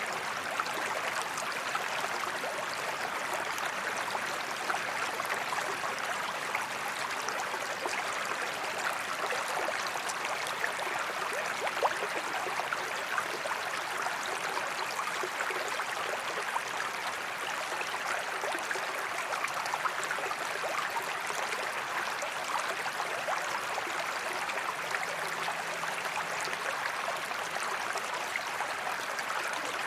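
Waterfall: a steady rush of falling water with fine splashing throughout.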